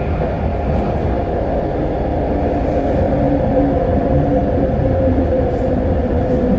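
Vancouver SkyTrain car running along the track, heard from inside: a steady rumble with a droning whine that grows a little louder partway through.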